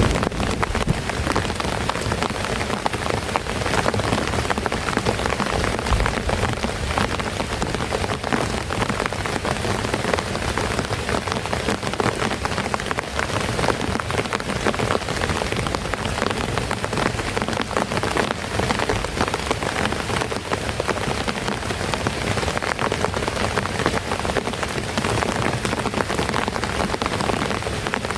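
Heavy rain falling steadily: a dense, even hiss made of countless drops striking a surface.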